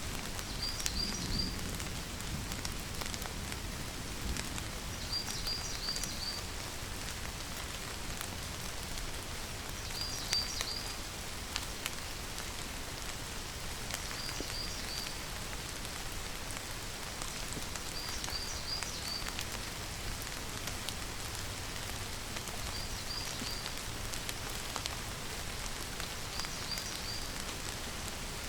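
Steady rainfall. A short, high chirping call of three or four quick notes repeats about every four to five seconds.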